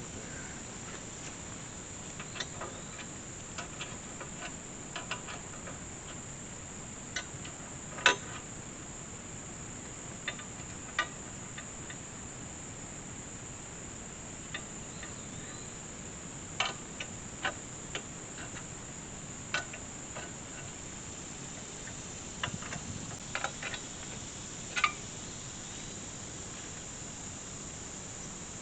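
Steady high-pitched insect chorus, with scattered sharp clicks and knocks from the metal parts of an Alaskan chainsaw mill being handled and adjusted, the loudest about eight seconds in.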